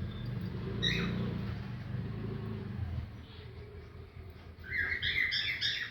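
A low rumble for the first few seconds, then, near the end, an Alexandrine parakeet gives a run of quick, short chirps, about four a second.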